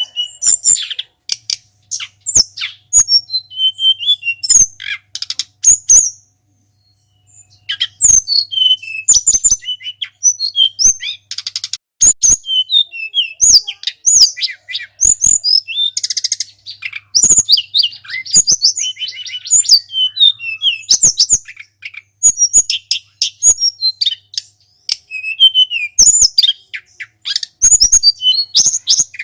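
Flycatcher song: rapid, high-pitched chirps and whistled phrases delivered in quick runs, with a short pause about six seconds in. It is recorded bird song of the kind used as training audio for caged songbirds.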